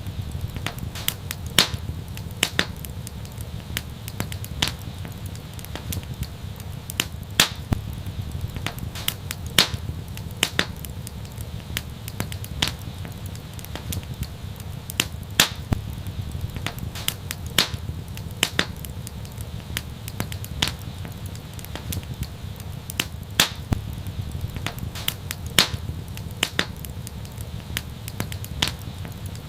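Wood fire crackling and popping, with frequent irregular sharp pops over a low steady rumble.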